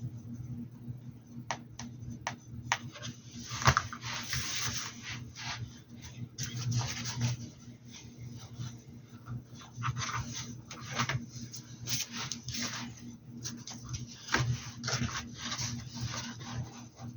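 Paintbrush work on a hat: short, irregular scratchy rubs and light clicks, the busiest about four seconds in and again from about ten seconds on, over a steady low hum.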